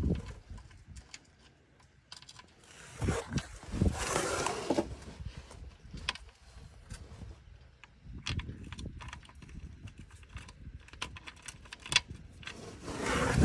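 Scattered small clicks and light rattles of hard objects being handled, with louder rustling, scraping stretches about three to five seconds in and again near the end.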